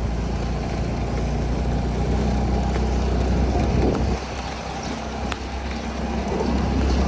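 A vehicle engine running steadily under road noise. Its low hum drops away suddenly about four seconds in and builds again near the end.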